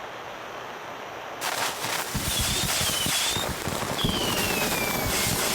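Fireworks hissing and crackling. A steady hiss swells sharply about a second and a half in, then dense crackling pops and two thin whistles follow, the second falling in pitch.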